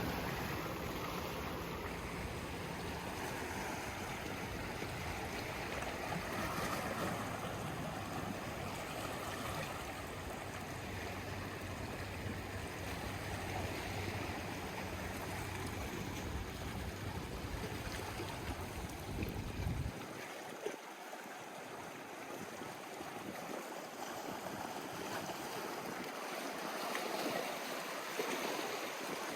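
Sea waves washing and swirling against a rocky shore in a continuous rush. A low rumble underneath drops away about two-thirds of the way through.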